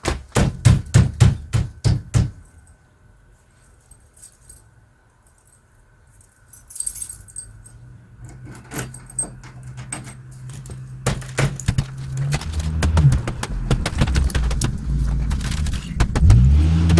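A clatter of keys, then an old Dodge pickup's engine cranking over in the freezing cold and catching, running unevenly at a low idle and revving up near the end: a cold start after an ice storm.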